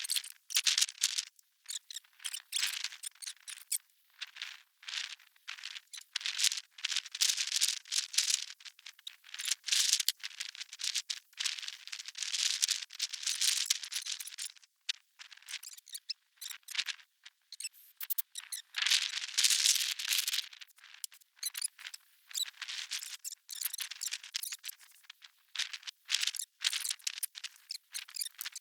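Hand tools working on a small engine's cylinder head: irregular runs of metal clicking and rattling in short bursts.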